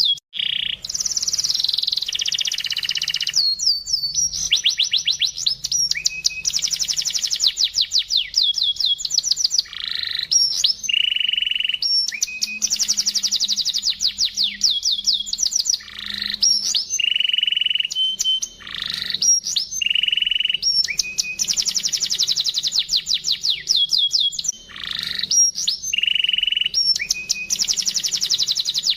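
Domestic canary singing a long, crystal-clear song of rapid trills and rolls, with some held, steadier notes and falling sweeps. The song comes in phrases several seconds long, with short breaks between them.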